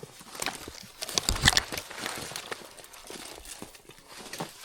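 Footsteps crunching through dry leaves and brush in an irregular rhythm, with a louder rustle and crackle about a second and a half in.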